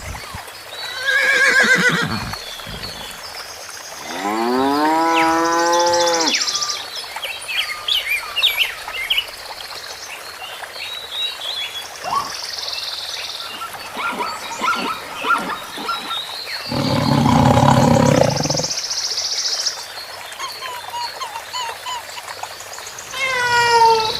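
A series of different animal calls: a short call about a second in, a longer rising call about four seconds in, a loud harsh call near the middle, and a run of falling calls near the end. Small bird chirps fill the gaps between them.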